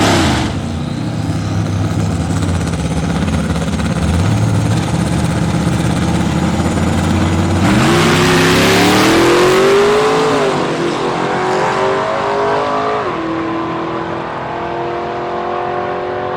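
Drag racing vehicles running at low revs at the start line, then launching at full throttle about eight seconds in. The engine pitch climbs and drops back at gear changes about two and five seconds later as they run down the strip.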